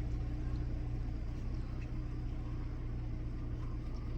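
Dodge Grand Caravan minivan driving, its engine and road noise making a steady low hum.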